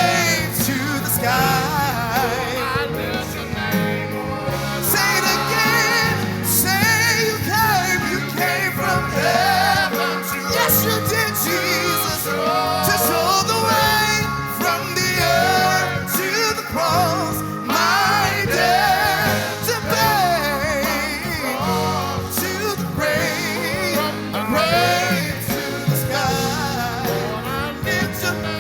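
Gospel worship music: singers with an instrumental band, the singing continuing without a break.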